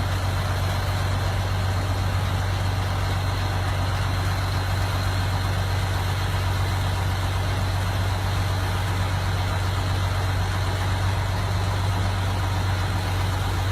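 Engine running steadily with a constant deep hum, no revving or change.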